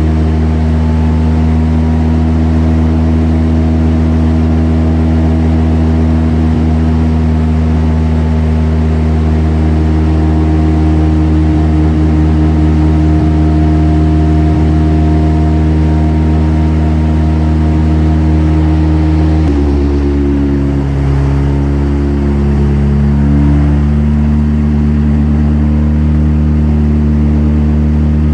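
Mazda RX-7 FD's 13B-REW twin-rotor rotary engine, with non-sequential twin turbos, running loud and steady at a held engine speed during dyno tuning. About two-thirds of the way through its tone changes suddenly, wavers for a few seconds, then holds steady again.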